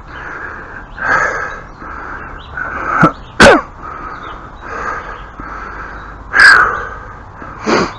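Crow cawing repeatedly, about once a second, with one louder caw about two-thirds of the way in. A short, sharp sound about halfway through.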